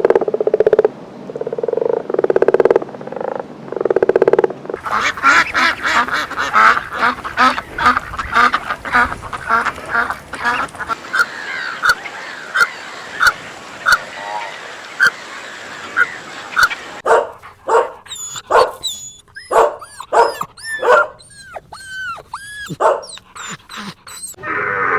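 Ducks quacking: a few separate calls about a second apart, then many calling together. These are followed by a run of short, high, falling peeps.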